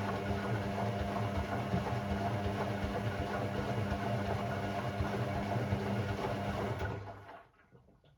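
Hoover Sportswear 1300 AI130 washing machine running its motor steadily, with a low hum and a churning rumble. It winds down and stops about seven seconds in, like the pause between drum turns in a wash cycle.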